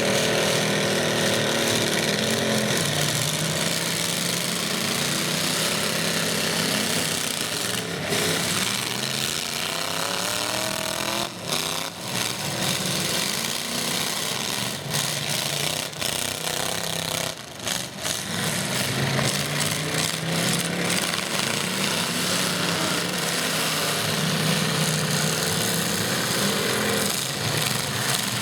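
Several demolition derby trucks' engines running hard and revving, their pitch rising and falling, with a few sharp bangs of metal striking metal in the middle stretch as the trucks collide.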